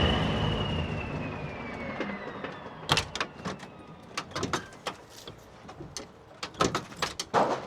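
Scania 143 V8 truck running, with a whine that falls in pitch and fades over the first few seconds as the tipper hydraulics settle, then a few scattered knocks and clicks.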